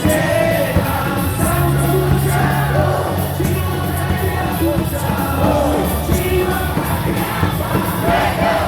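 Loud cheer music over the ballpark loudspeakers, with a large crowd singing and chanting along to a steady beat.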